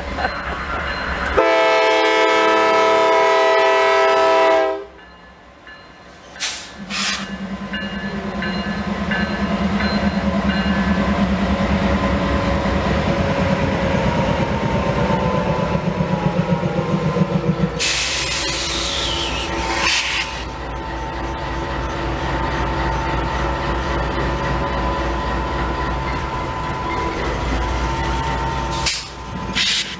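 Norfolk Southern diesel locomotive sounding its multi-note horn in one blast of about three seconds, then its engine running low and steady as the locomotive and a work train of flatcars roll slowly past over the rails. A brief loud rushing noise comes a little past halfway.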